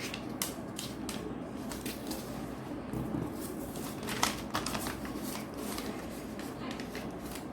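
A sheet of paper being folded and creased by hand, with short scattered rustles and crinkles, the loudest about four seconds in, over steady background noise.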